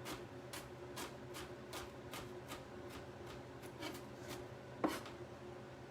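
Knife chopping food on a cutting board in an even rhythm of about two to three cuts a second, with one louder knock near the end.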